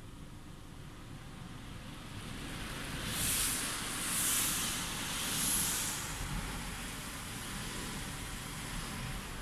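Automatic car wash machine running with a low rumble that builds about two seconds in, then three loud hissing surges about a second apart near the middle before settling to a steady wash noise.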